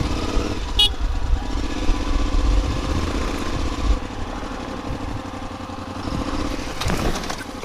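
KTM 950 Adventure's LC8 V-twin engine running at low, steady revs as the bike rolls slowly along a narrow concrete channel.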